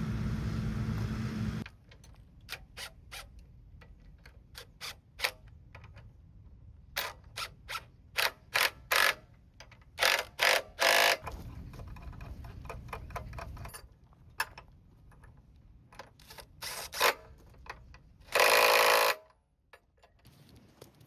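A machine's steady running noise stops abruptly about two seconds in. After that come irregular sharp metallic clicks and clanks from hand work on metal parts, with a longer rasping burst near the end.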